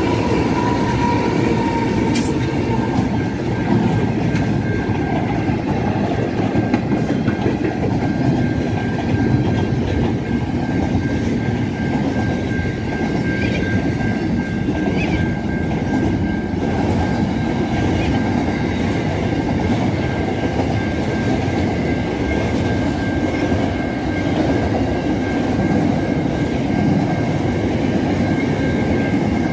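Freight train of double-stacked container wagons rolling past, the wheels running over the rails with a steady clickety-clack and a steady high-pitched tone over the rumble.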